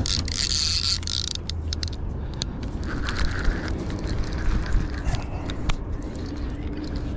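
Fishing reel being cranked to bring in a hooked catfish, its gears and pawl giving a ratcheting mechanical sound with scattered sharp ticks.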